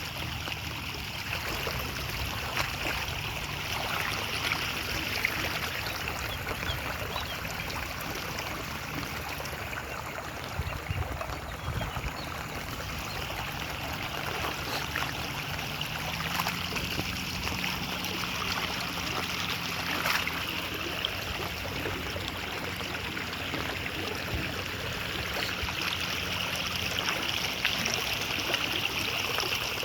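Water flowing steadily in a stream. A faint low hum joins about halfway through.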